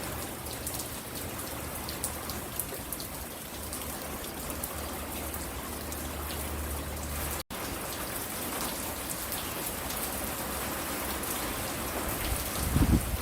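Steady rain falling, with individual drops ticking sharply over the even hiss. The sound cuts out for an instant about halfway through, and a low rumble rises near the end.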